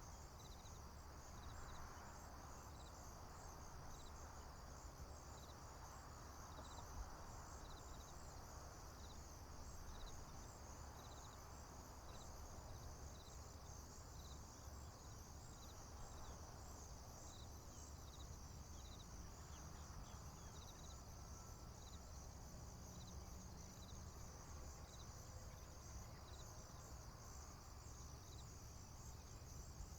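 Crickets and other insects chirping steadily in a field: a continuous high-pitched pulsing trill with a separate regular chirp about once a second, over a faint low rumble.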